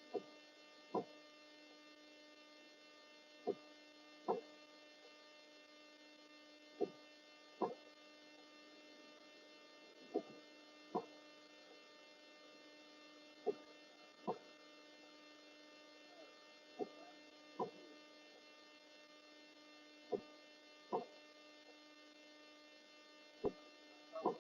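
Steady electrical hum with many overtones, with a pair of soft thumps, less than a second apart, repeating about every three seconds.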